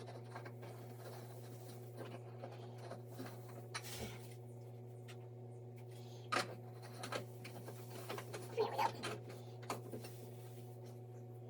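Faint scrapes and a few small clicks as a shower head is threaded onto the shower arm by hand, over a steady low hum.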